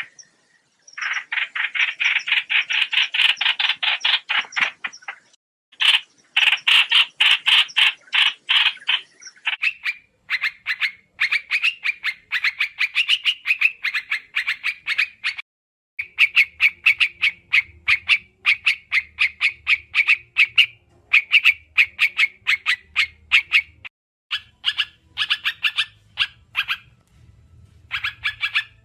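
Trao trảo bird song used as a trapping lure call: fast chattering trills of many quick notes, in phrases several seconds long with brief pauses between them.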